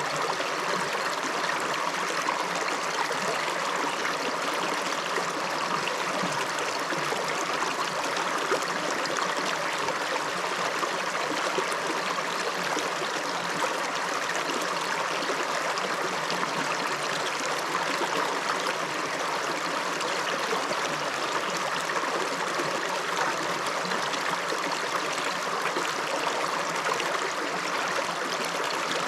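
A river flowing over stones, a steady rush of water with trickling and gurgling.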